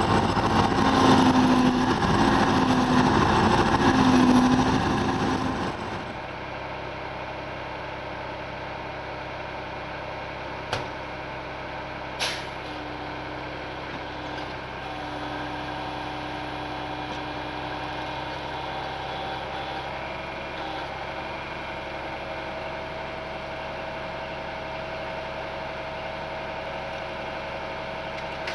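Ural truck's diesel engine running loudly with a pulsing beat for about six seconds, then suddenly dropping to a quieter, steady idle. Two short sharp sounds come a second and a half apart partway through.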